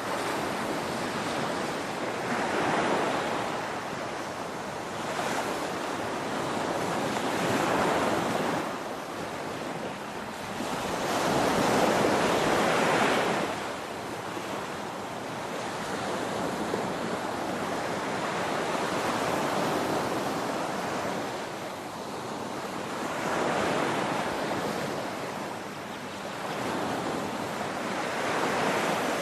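Ocean waves breaking on a beach, a continuous surf hiss that swells and recedes every few seconds, the biggest surge about twelve seconds in.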